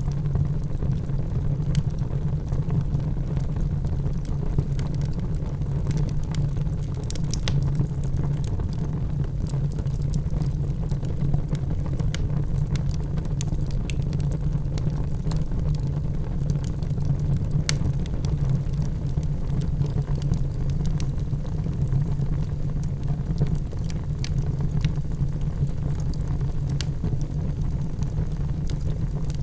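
Wood fire crackling in a fireplace, with scattered sharp pops and snaps at irregular moments over a steady low rumble.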